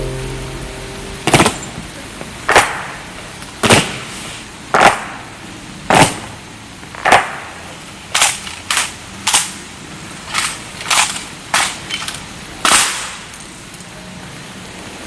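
Honor guard rifle butts stamped hard on the ground in drill, about thirteen sharp cracks: roughly one a second at first, then quicker and more uneven from about eight seconds in. A steady hiss of heavy rain runs underneath.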